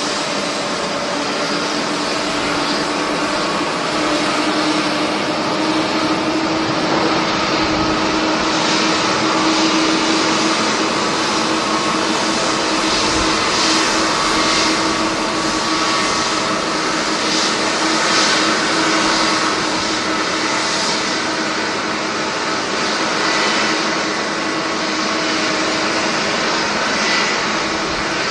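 Jet airliner engines running, a steady rushing noise with a constant low tone and a higher whine that hold level throughout.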